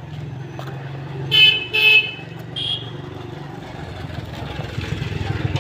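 A vehicle horn honks twice in quick succession, then gives a shorter, quieter toot, over a steady low hum.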